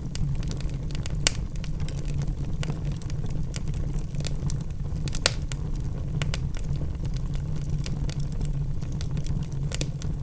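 Wood logs burning in a fireplace: a steady low rumble of flame with frequent small crackles, and two sharper pops, about a second in and about five seconds in.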